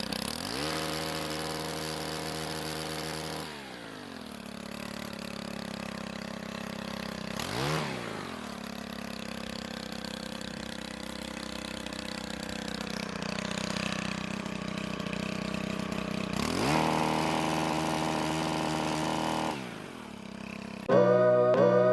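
Gas pole chainsaw's engine revving up and held at high speed for about three seconds, dropping back to idle, a brief throttle blip, a long idle, then revved high again for about three seconds and let back down. Music starts near the end.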